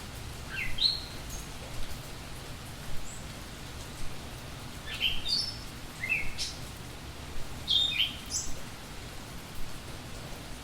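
Budgerigars chirping: short rising calls in small groups, spread through, over a steady background hiss.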